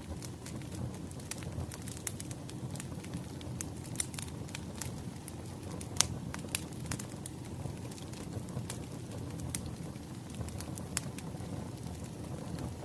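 Wood fire crackling, with irregular sharp pops over a low steady rumble; the loudest pop comes about six seconds in.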